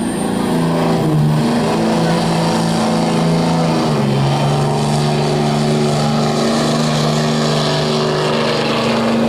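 A pulling truck's engine running hard at high revs under load, with a steady note that steps down in pitch about four seconds in.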